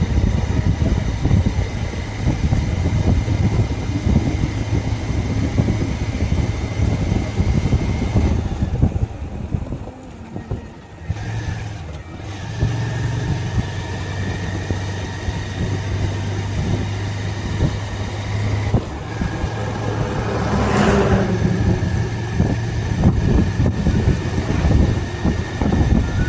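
Motorcycle engine running on the move, with heavy low wind rumble on the microphone. The sound drops away for a couple of seconds about ten seconds in, then picks up again.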